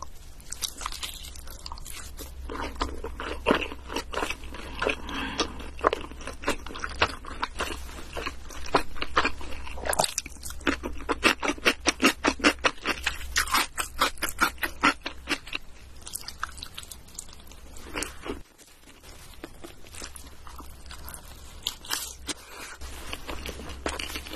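Close-miked eating of pizza: bites into the crust and a run of crunchy, wet chewing, steady and rhythmic for several seconds in the middle, with a short pause later on.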